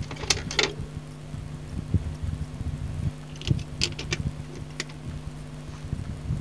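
A few light, sharp clicks and taps of small parts being handled on a workbench, over a steady low electrical hum.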